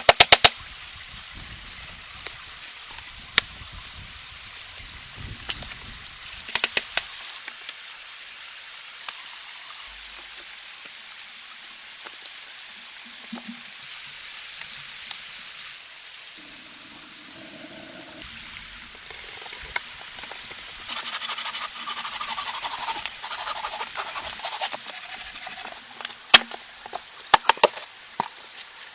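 Steady rain hiss with scattered sharp clicks and knocks, growing louder for a few seconds about three quarters of the way through.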